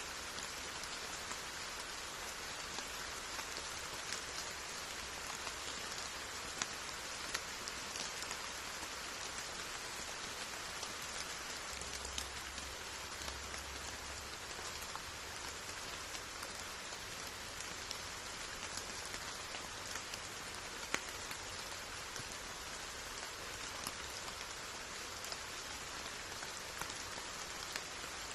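Steady rain falling, a continuous even hiss with scattered individual drops ticking on surfaces.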